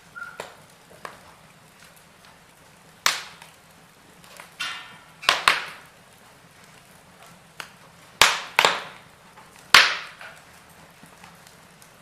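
Wood fire in a fireplace crackling, with several sharp, loud pops from the burning logs, some in quick pairs, and quieter ticks in between.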